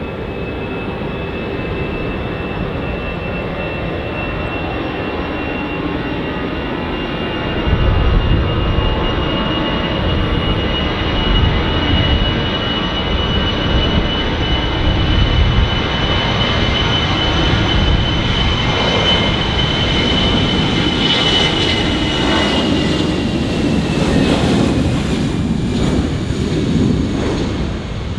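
Airbus A320's CFM56 turbofan engines at takeoff power on the takeoff roll: a steady high fan whine over a low rumble that grows loud about 8 seconds in. Near the end the whine drops in pitch as the jet passes and lifts off.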